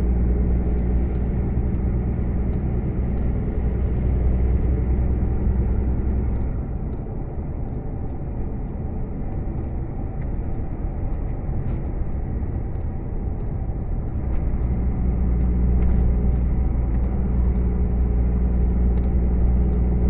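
Heavy truck's diesel engine droning steadily, heard from inside the cab while driving, with road noise. About six seconds in, the engine note eases off; it comes back strongly around fourteen seconds in.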